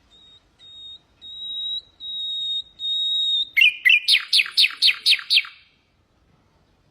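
Nightingale singing one phrase: four pure whistled notes on one pitch, each louder and longer than the last, then about three and a half seconds in a fast, loud run of downward-sliding notes, about seven a second, lasting two seconds.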